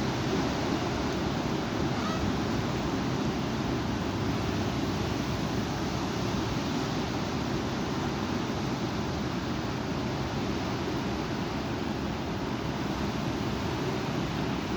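Strong wind blowing, a steady deep rushing noise that also hits the microphone.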